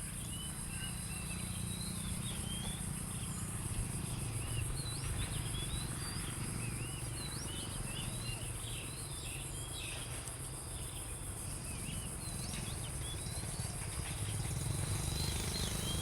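Outdoor ambience of small birds chirping in quick, repeated short calls over a steady high-pitched insect drone, with a low rumble underneath.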